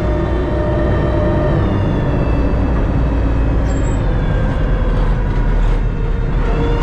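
Terex TLB-815 backhoe loader's diesel engine running while the machine drives along, with a steady stack of tones whose pitch dips about two seconds in and rises again near the end.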